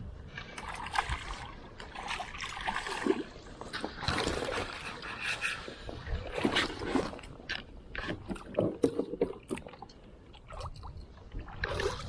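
Water splashing and sloshing around a fishing kayak, with irregular knocks and rattles on the hull.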